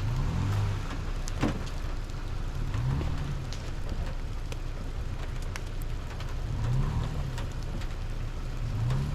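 Pickup truck engine revving up and easing off several times, with a steady hiss of tyres churning in snow as the truck struggles for traction on a steep snowy grade. Scattered sharp clicks are heard through it.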